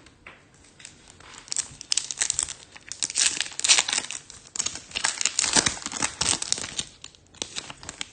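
Foil wrapper of a trading-card pack being torn open and crinkled by hand: a burst of dense crackling and tearing that starts about a second and a half in and dies away near the end.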